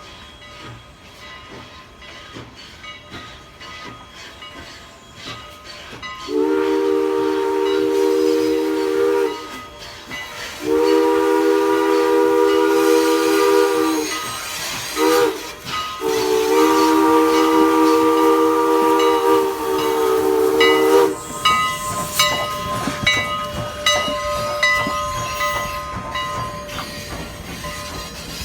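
Strasburg Rail Road No. 89's steam whistle sounding two long blasts, a short one and a final long one: the long-long-short-long grade-crossing signal, sounded as the locomotive approaches a road crossing. The train's running sound comes before and after the whistle, with rapid clicks of the wheels and train coming through as the whistle ends.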